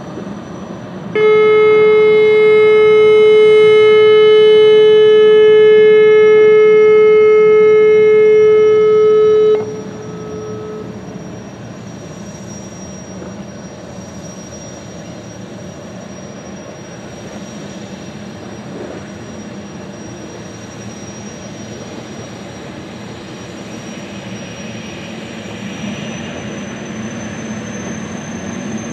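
Jetfoil's horn sounding one long, steady blast of about eight seconds as the craft leaves port, over the steady whine of its gas turbines. The whine rises in pitch near the end as the turbines gather power.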